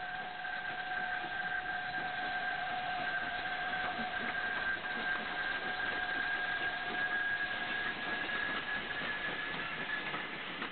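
Steady running noise of a moving train heard from on board, with a continuous high two-note whine over it.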